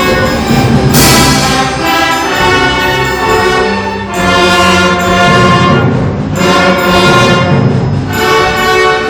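Symphony orchestra playing loud classical music with brass prominent. The full orchestra swells in repeated accented surges every couple of seconds.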